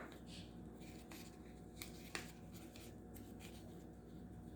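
Faint rustling and creasing of a sheet of paper being folded by hand, with a few soft ticks.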